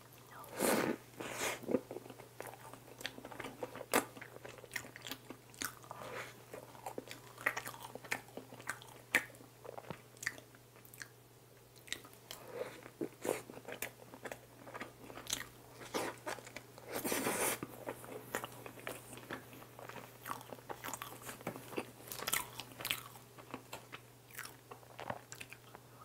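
Close-up mouth sounds of eating soft bread dipped in cream: biting and chewing, with frequent small smacks and clicks. A faint steady hum runs underneath.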